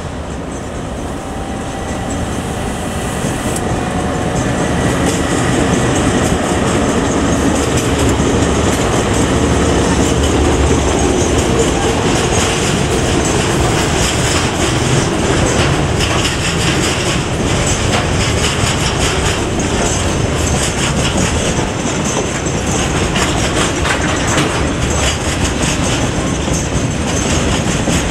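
A container train hauled by three DL class diesel-electric locomotives passing: the locomotives grow louder as they approach over the first several seconds, then the container wagons roll by with a steady clickety-clack of wheels over the rail joints.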